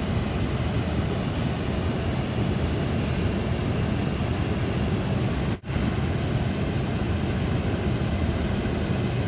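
Steady rushing roar of a large waterfall, with one split-second dropout a little past the middle.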